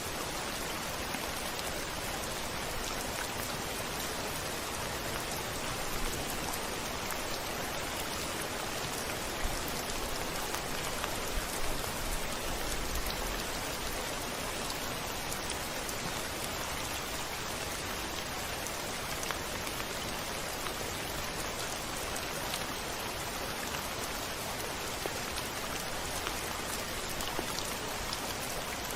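Steady rain falling, an even hiss with many sharp individual drop ticks. A brief low rumble swells faintly midway.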